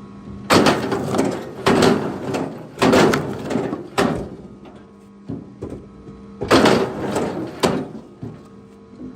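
Heavy wooden knocks of logs or firewood being handled, about one a second: four strong ones in a row, a few lighter knocks, then two more strong ones.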